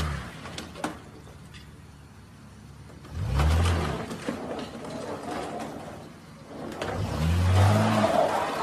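Ford Mustang's engine revved in short bursts, three times, rising and falling in pitch, as the car is driven to get free of the concrete pump island it is stuck on. A rough rushing noise builds near the end as the car moves.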